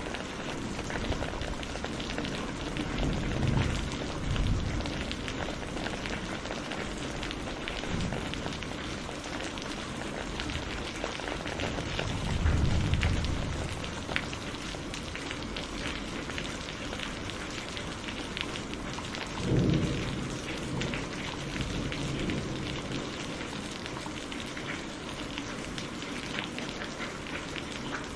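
Steady heavy rainfall, with thunder rumbling low several times: twice in the first few seconds, loudest about halfway through, and again about two-thirds of the way in.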